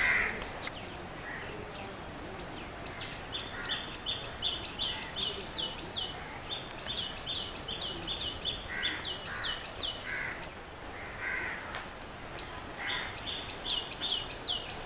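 A bird singing: rapid runs of short, high, downward-slurred notes, in three bursts, over a steady outdoor background noise.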